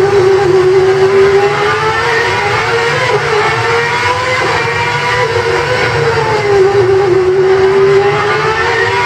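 Honda Formula 1 car engine running at high revs, its note rising and falling again and again as it is driven on track.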